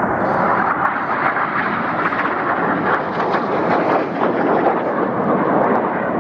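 Loud, steady jet noise of BAE Hawk T1 jets flying past in a formation display.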